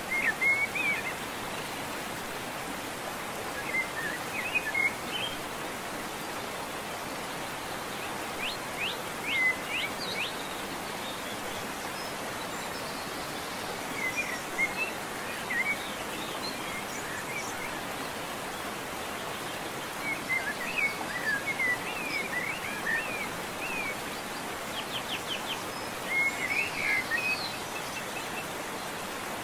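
Small birds chirping in short clusters every few seconds over a steady outdoor hiss.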